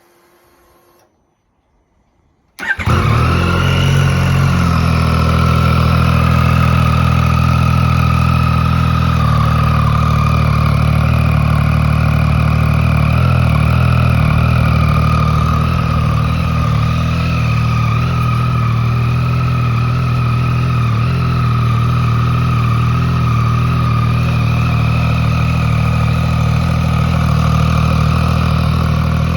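Yamaha XSR900's three-cylinder engine, fitted with an aftermarket SP Tadao exhaust, firing up suddenly a few seconds in and then idling steadily and loudly.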